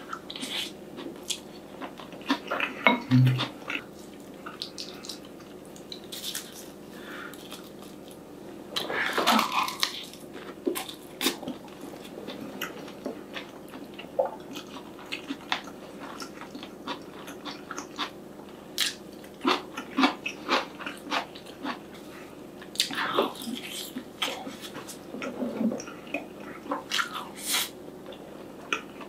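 Close-miked eating: a man biting into and chewing a mouthful of rice topped with tuna mayonnaise on seaweed, with irregular wet mouth clicks and smacks and a few louder bursts of chewing.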